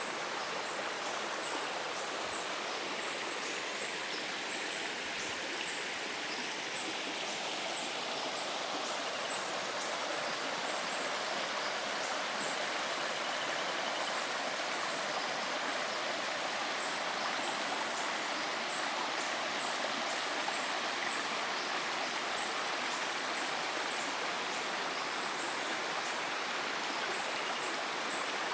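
Steady rushing of flowing stream water, with faint high ticks scattered throughout.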